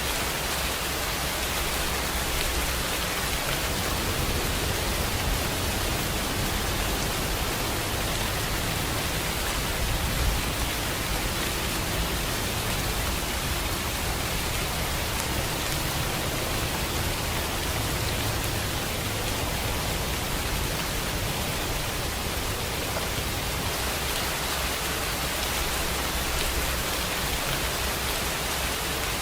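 Steady rainfall: an even, unbroken hiss of rain on a surface.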